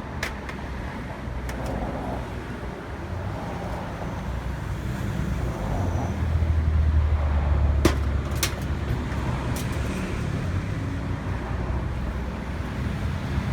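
A car's engine running with a low rumble that swells for about two seconds from around six seconds in, with a few sharp clicks.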